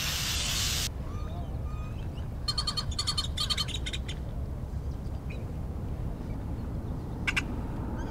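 Birds chirping outdoors: several quick runs of chirps between about two and four seconds in and another short one near the end, over a steady low rumble. A short hiss opens the sound, lasting under a second.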